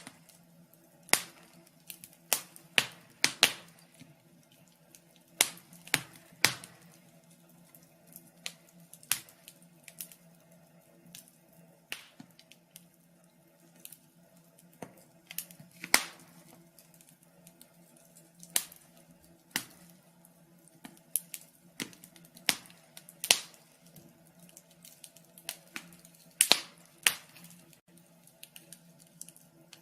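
Fire crackling: irregular sharp pops and snaps, a few much louder than the rest, over a faint steady low hum.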